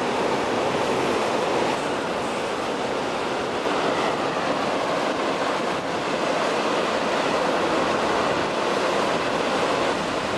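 Steady, even rushing noise, like wind buffeting the microphone, with no distinct strikes or tones.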